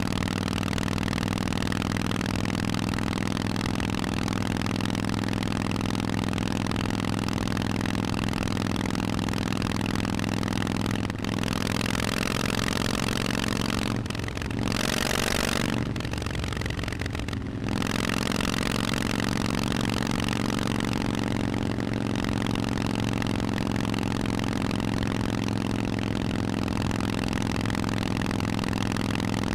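Harley-Davidson Forty-Eight's air-cooled V-twin running through Vance & Hines aftermarket exhausts. It holds a steady note except for a short dip and change in the sound about halfway through.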